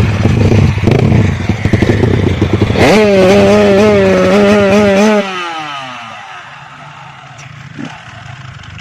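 Grasstrack racing motorcycle engine running unevenly at low revs, then revved sharply about three seconds in and held high for about two seconds before the revs fall away and the sound fades.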